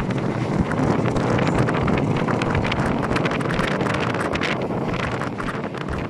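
Wind buffeting the microphone, a steady rush with many sharp crackles throughout.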